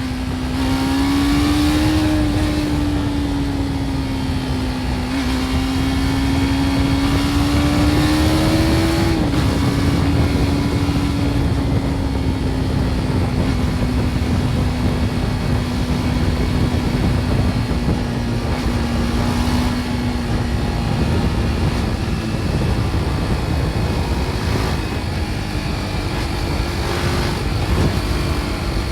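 BMW G310 R's single-cylinder engine with its stock exhaust, under way: revs climb and drop sharply at a gear change about nine seconds in, then hold steady at cruising speed. A low rush of wind and road noise runs underneath.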